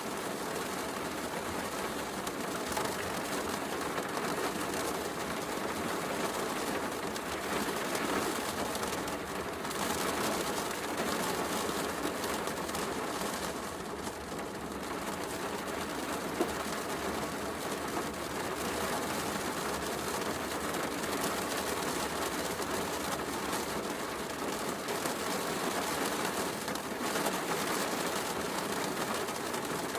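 Steady heavy rain mixed with a crackling wood fire, with one louder pop about 16 seconds in.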